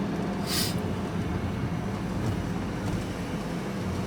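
Vehicle engine and road noise heard from inside the cab while driving, a steady low hum, with a brief hiss about half a second in.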